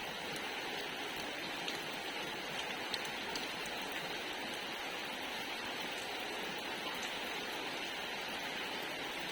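Steady rain falling and pattering on surfaces, an even hiss with a few distinct drop ticks.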